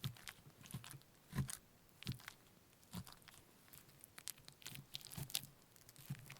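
Close-up crunchy, gritty handling sounds of food preparation: about a dozen irregular strokes, each a soft thump with a crackle.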